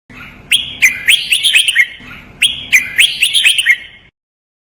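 Red-whiskered bulbul singing two matching phrases back to back, each a quick run of sharp, clear whistled notes that drop in pitch. It is a recorded master song for training caged bulbuls to sing.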